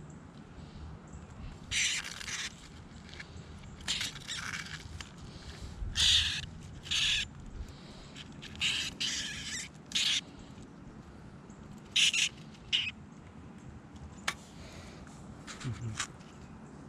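A small wild bird, caught and held in the hand, giving a string of short harsh distress squawks, about a dozen, spaced irregularly.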